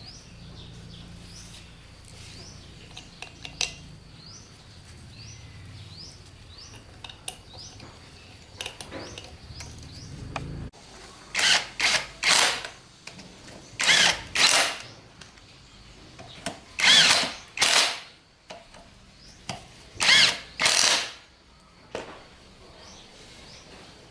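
A power tool run in short bursts, two or three at a time, each about half a second long, after a steady low hum in the first ten seconds.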